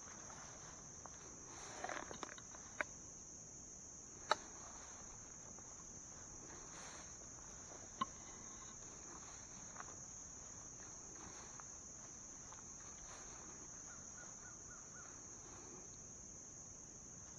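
Insects, crickets or similar, trilling in one steady, high-pitched drone, faint. A few sharp clicks break in, the loudest about four seconds in, with a short rustle of footsteps about two seconds in.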